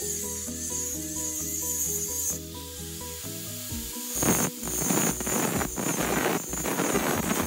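Angle grinder's cutting disc biting into steel angle iron in repeated uneven bursts from about halfway through, notching the angle for a bent frame corner, over background music.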